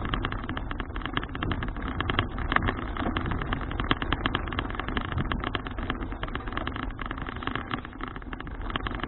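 Riding noise from a folding bicycle captured on an action camera: a steady rumble of wind and road with a dense, irregular rattle of clicks as the bike jolts along.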